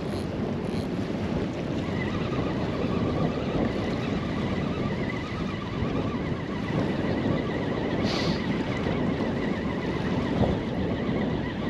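Steady wind buffeting the microphone over water lapping against a small boat. A faint whirring from a fishing reel being wound in runs through most of it.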